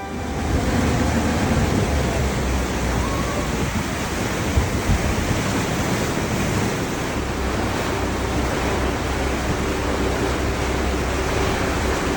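Steady rush of water and wind buffeting the microphone, as heard aboard a moving boat, with a low steady hum beneath.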